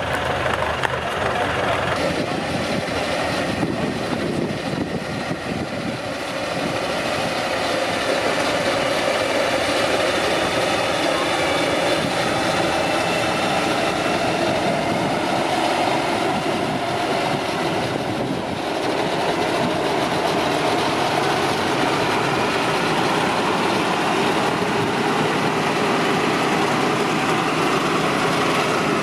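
Truck engine running, getting louder about six seconds in and then holding steady.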